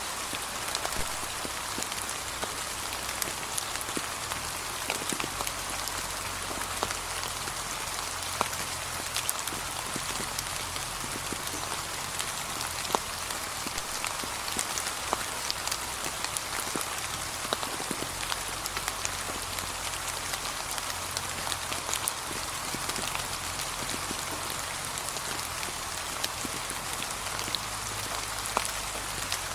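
Steady gentle rain falling on fallen autumn leaves: an even patter with many separate drops ticking.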